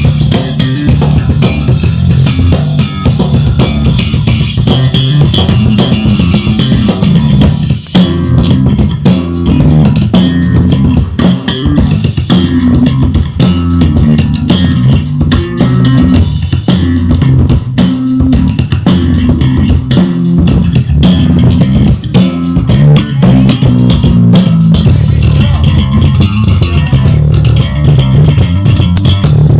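Electric bass guitar played loud through Gallien-Krueger and Laney amplifiers under test: a continuous line of low bass notes changing pitch.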